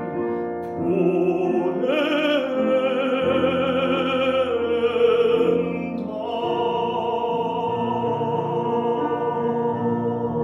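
Baritone singing a Korean art song in operatic style with piano accompaniment, the voice rising to a long held note with wide vibrato through the middle.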